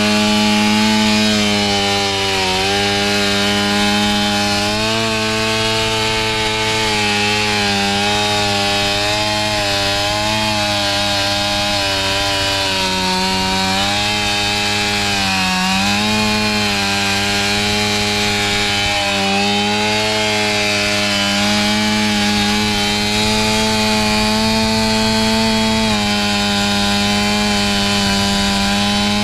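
Two-stroke chainsaw running at high revs while cutting wood, its engine pitch dipping briefly several times as the chain bites under load and then picking back up.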